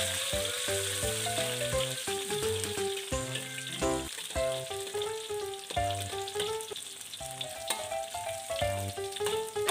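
Sliced garlic, shallots, galangal and salam leaves sizzling in hot oil in a wok, stirred with a metal spatula that clicks and scrapes against the pan. A melodic background tune with a bass line plays under it.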